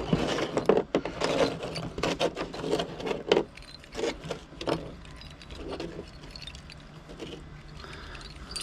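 Pieces of scrap metal being handled and sorted by hand: a quick run of clatters, clinks and scraping in the first few seconds, then scattered knocks.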